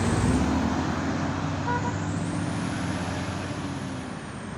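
Truck engine running steadily and slowly fading away.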